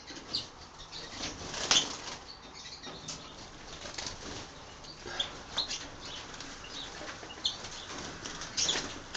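Pet finches fluttering and flapping their wings in short flurries, with a few brief high chirps; the loudest flurries come about two seconds in and near the end.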